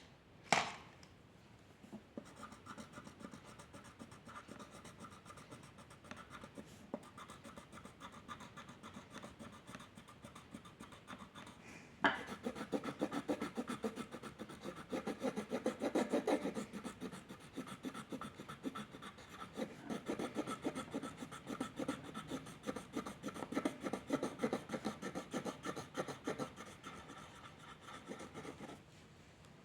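A pen or pencil scratching rapidly back and forth on paper, as in shading or colouring in. It is faint at first, becomes louder and busier about a third of the way in, and stops just before the end.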